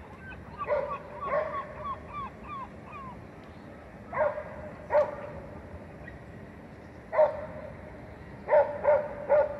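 A dog barking: eight short barks in groups, two about a second in, two about four to five seconds in, one about seven seconds in and a quick run of three near the end. In the first three seconds a run of short, high, falling yips goes between the first barks.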